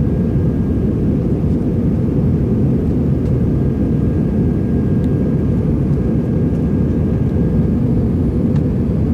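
Steady cabin noise aboard an Airbus A321-200 airliner after takeoff: an even, loud rumble of jet engines and airflow with a faint thin whine above it.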